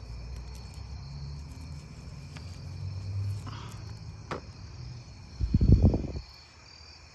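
Insects chirping faintly in the background, with a couple of light clicks. A short, loud low rumble on the microphone comes a little before the end.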